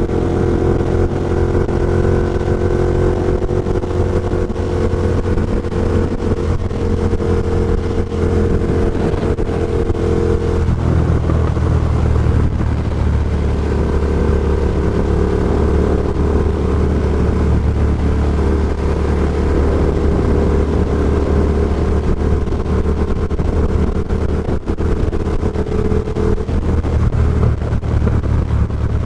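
Ducati Diavel Carbon's L-twin engine with an Austin Racing GP2 aftermarket exhaust running steadily under way, heard through a microphone inside the rider's helmet. The engine note shifts lower about a third of the way through, then holds steady again.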